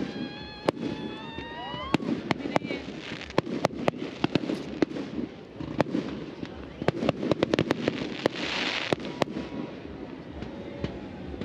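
Fireworks going off: a stream of sharp pops and cracks, with a rising whistle in the first two seconds and a hissing burst about eight seconds in. A crowd murmurs underneath.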